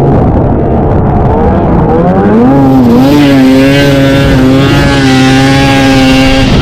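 Vintage two-stroke snowmobile engine running under throttle: it revs up about two seconds in and holds high revs, then drops off sharply near the end.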